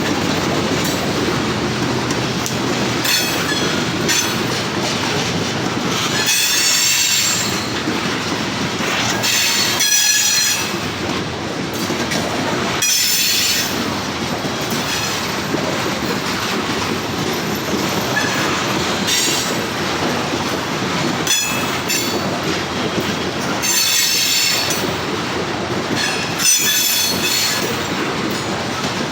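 CSX freight train rolling past: the steady rumble of cars on the rail, with the wheels squealing in high, shrill bursts every few seconds and an occasional sharp clunk.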